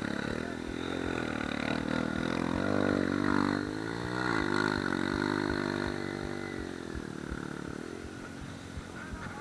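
Suzuki Gixxer single-cylinder motorcycle engine running, its pitch rising and falling as the throttle is worked around the middle, then settling steadier and a little quieter near the end.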